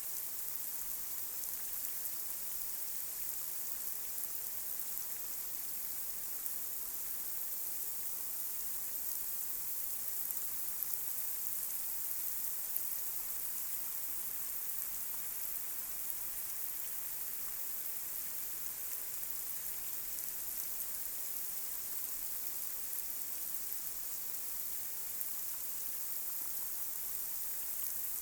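Light rain falling steadily on a street, a constant high hiss of drops with a few sharper individual drop ticks.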